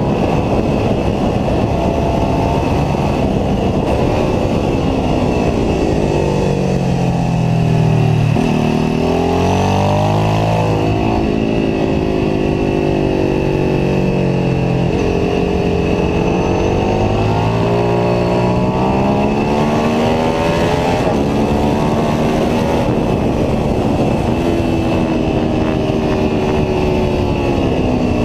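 Ducati 749S's 90-degree V-twin engine at track pace, its pitch climbing as it accelerates and dropping as it slows, several times over, with the deepest drop and the loudest moment about eight seconds in.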